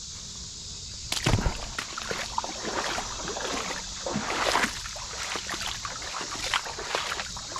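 Water sloshing and splashing around a kayak, with irregular knocks against the hull, the loudest about a second in. A steady high insect chirring runs underneath.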